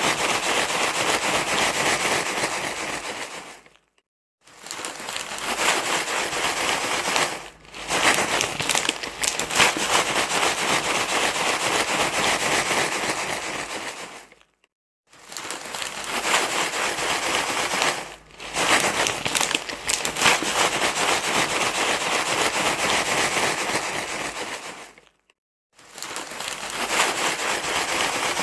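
Continuous crinkling rustle of something being crumpled and handled, played as a baby-soothing sound. It comes in long stretches broken by brief pauses about five times.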